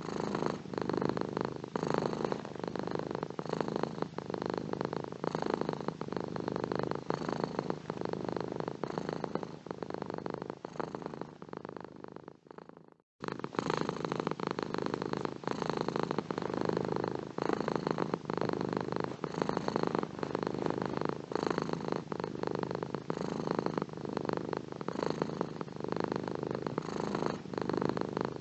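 Domestic cat purring steadily, swelling and easing in a slow, even rhythm. About thirteen seconds in, the purr fades and cuts out for a moment, then comes straight back.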